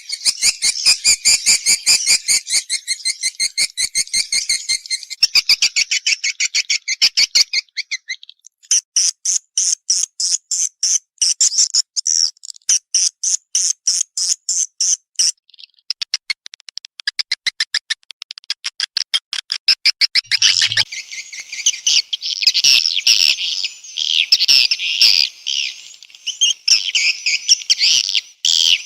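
Swiftlet calls: fast, regular trains of high chirps, several a second, breaking off briefly about 8 and 15 seconds in, then turning into a denser, continuous twittering after about 20 seconds. This is the kind of swiftlet call recording played to lure swiftlets into a nesting house.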